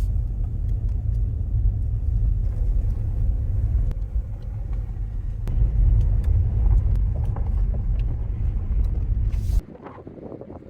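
Steady low rumble of a vehicle on the move, with faint scattered clicks, cutting off suddenly near the end.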